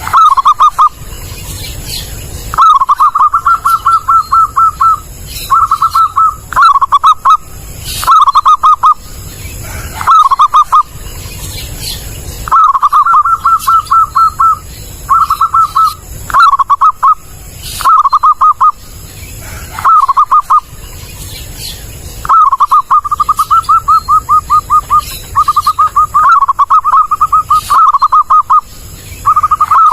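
Zebra dove (perkutut) cooing: a clear, loud song of quick staccato notes in short repeated phrases, one every second or two.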